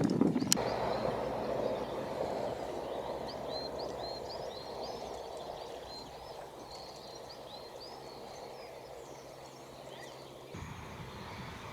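Small birds chirping, short high chirps repeated many times over a steady background rush that slowly fades, with a single sharp click about half a second in.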